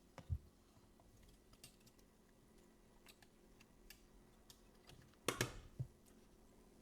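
Faint light clicks and taps from handling an LCD laminating machine while loading a phone screen into it: a small knock just after the start, scattered tiny ticks, and a short cluster of taps about five seconds in.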